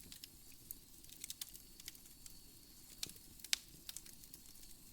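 Wood fire crackling in a fireplace: irregular small pops and snaps over a faint low hiss, with one louder pop about three and a half seconds in.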